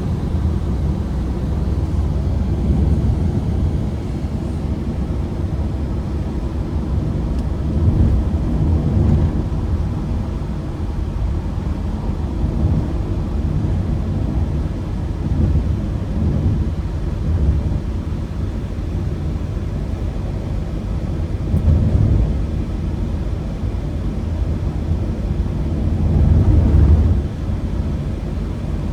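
Ford Transit Connect van's petrol engine and road noise heard from inside the cabin while driving: a low rumble that swells several times, loudest near the end, then drops off suddenly.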